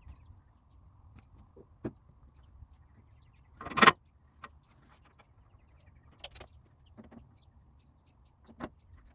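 Scattered clicks and knocks of hand tools and metal parts being handled, with one louder, longer metallic clank or scrape about four seconds in.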